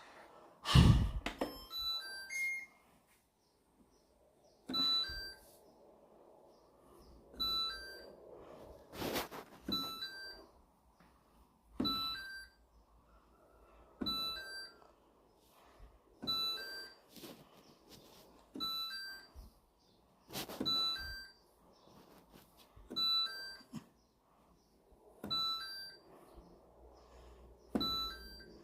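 Hyundai LAHY8123W washing machine's control panel: a loud thunk about a second in, followed by a short run of beeps, then a click and a short high beep repeating about every two and a half seconds as the program selector is stepped through its programs.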